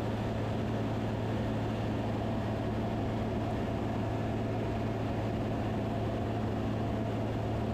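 Van's RV-10 light aircraft's piston engine and propeller droning steadily in flight, with no change in pitch or level.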